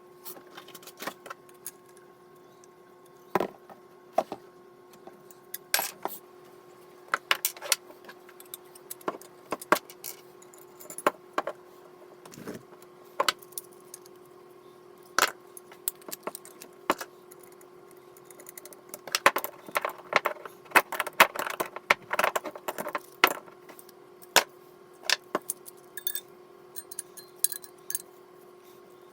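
Small hard objects, likely metal parts, clinking and clattering as they are handled, in irregular knocks with a dense cluster of clatter about two-thirds of the way through. A steady low hum runs underneath.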